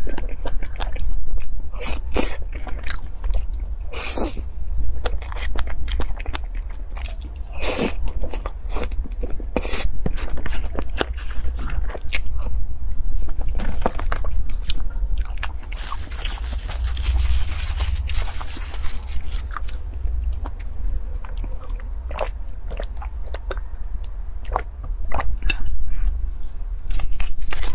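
Close-miked eating sounds: wet chewing, lip smacks and mouth clicks from someone eating soft strawberry cream cake, over a steady low hum. About sixteen seconds in there is a few seconds of hissing rustle.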